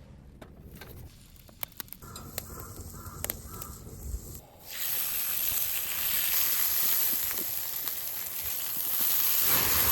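Beef tongue sizzling on a hot grill pan over a campfire: a loud, steady sizzle that starts suddenly a bit before halfway, as the meat goes onto the pan. Before it there are faint clicks and a few short calls.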